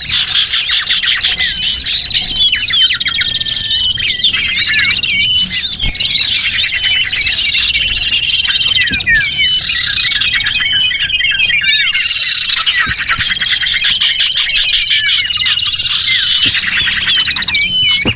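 A dense chorus of small songbirds, many calls overlapping: squeaky chirps and fast buzzy trills without a break. This is a lure recording used to call small birds in.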